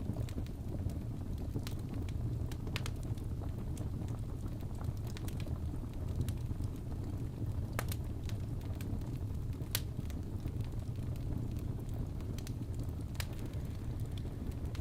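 Crackling fireplace: a steady low rumble of burning logs with scattered sharp pops and crackles.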